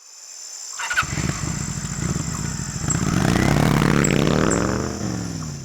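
Adventure motorcycle engine riding by: the sound starts about a second in, grows louder with the pitch climbing, then falls in pitch and fades near the end.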